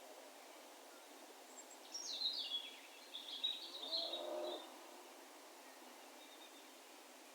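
A distant songbird singing over a steady low hiss of background noise. One phrase of quick notes runs downward in pitch, followed at once by a run of high twittering notes, about three seconds in all, starting a couple of seconds in.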